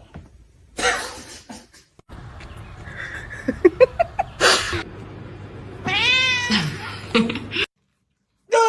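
Domestic cat meowing: a drawn-out meow that rises and then falls in pitch about six seconds in, and another falling meow right at the end, with short noisy sounds between them.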